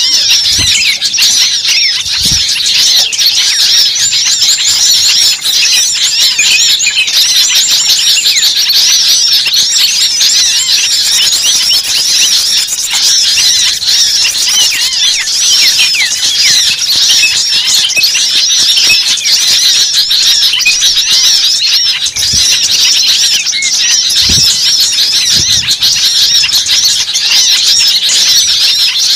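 A dense chorus of many small songbirds chattering and squeaking at once, rapid overlapping chirps and short glides with no pause. This is a bird-lure recording of agitated, excited birds meant to draw small birds in.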